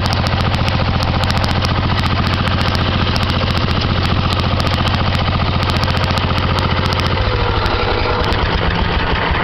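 A 10 hp Wheel Horse garden tractor's engine running steadily with a fast, even pulse; about seven seconds in its note changes and drops lower.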